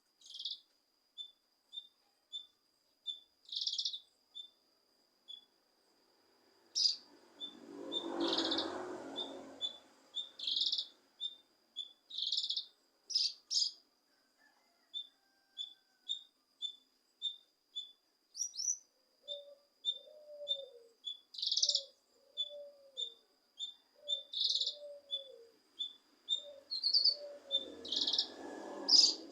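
Cucak kinoi singing: a run of short, high chirps about twice a second, broken by louder bursts of song, over a thin, steady high tone. From about two-thirds of the way in, a lower, arched call repeats roughly once a second.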